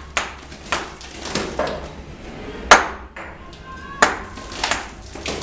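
A series of sharp knocks, about six at an uneven pace, the loudest about halfway through: a bricklayer's steel trowel striking on a jobsite.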